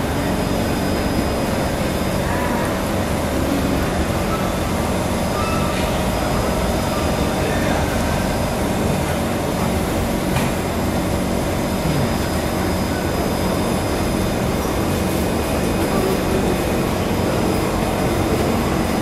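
Steady hum inside a stationary Kawasaki C151 MRT train standing at a station platform with its doors open.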